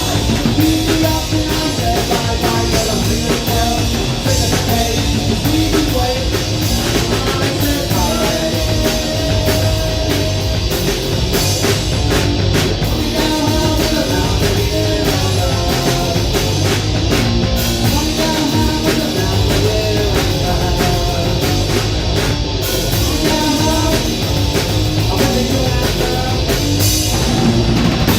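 Live punk rock band playing at full volume: pounding drum kit, distorted guitar and bass, with some singing.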